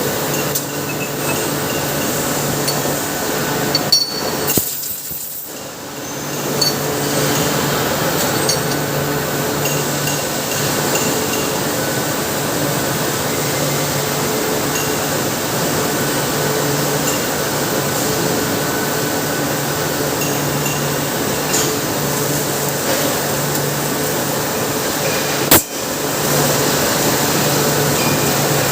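Industrial noise from a MIG welding department with automated welding machines: a steady machine hum under a dense hiss, with scattered metallic clinks. The noise dips briefly about five seconds in and there is one sharp knock near the end.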